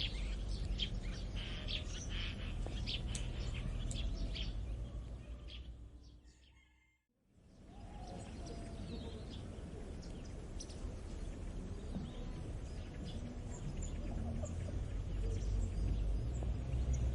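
Countryside ambience of songbirds chirping over a steady low rumble. It fades out about five seconds in to a moment of silence, then a second outdoor ambience fades in with the same kind of low rumble and only occasional faint bird calls.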